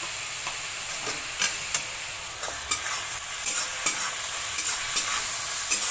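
Chopped onion, beetroot and capsicum sizzling in hot oil in a kadhai, with a steady hiss. A steel spatula stirs the mix, scraping and clicking against the pan every few moments, more often in the second half.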